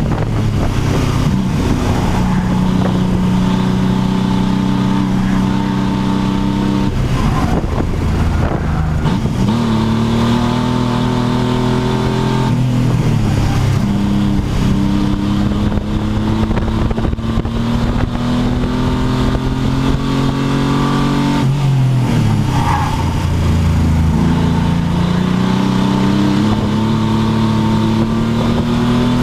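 Pontiac Fiero race car engine under hard acceleration on a lap. Its note climbs slowly, then drops sharply three times, about 7, 12 and 21 seconds in, before climbing again.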